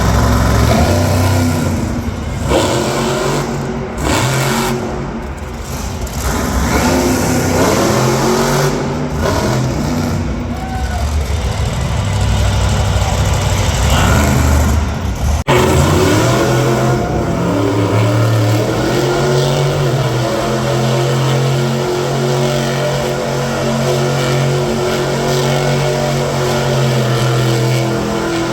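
Monster truck engines revving up and down, rising and falling in pitch. After an abrupt break about halfway through, an engine holds a steady, loud drone for the rest of the time.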